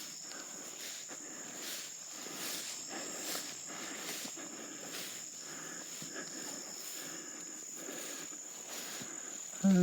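Steady high-pitched drone of insects in the woods, with faint footsteps on the forest floor about once a second.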